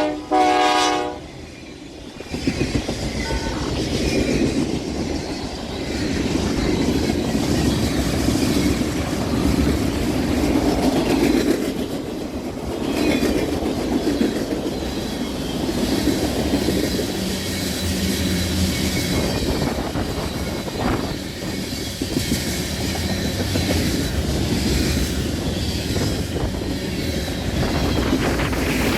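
Locomotive air horn sounding and cutting off about a second in, then a long freight train rolling past close by with a steady rumble of wheels and cars.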